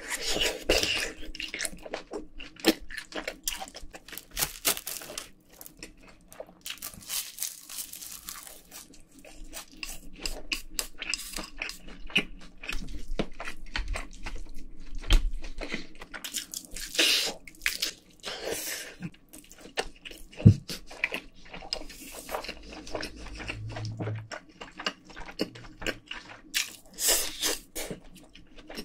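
Close-miked chewing and mouth smacking while eating spicy braised pork ribs with rice cakes, many irregular wet clicks and crunches, with a few sharper knocks.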